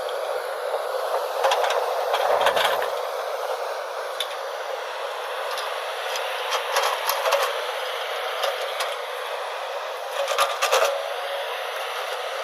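A backhoe loader working: a steady mechanical noise with bursts of clattering about two seconds in, around the middle and near the end.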